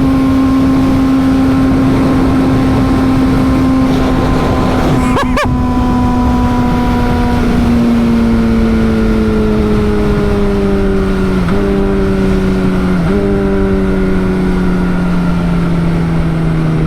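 Motorcycle engine running at steady high revs while riding. Its note sinks slowly, with a couple of brief dips in pitch in the second half, over rushing noise.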